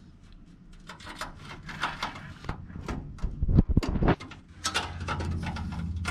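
Clicks, scrapes and rattles of a screwdriver and small parts being worked during a PC build, with a few heavy knocks about three and a half seconds in and a low steady hum joining about a second later.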